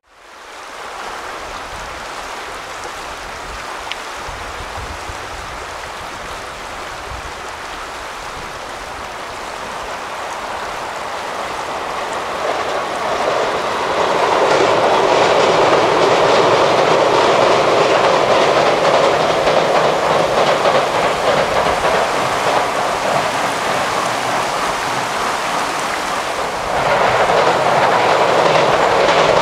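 JR East E233-0 series electric commuter train running over a steel railway bridge: a steady clatter of wheels on the rails and bridge. It grows gradually louder over the first fourteen seconds, holds steady, then jumps abruptly louder near the end as a second E233 train passes.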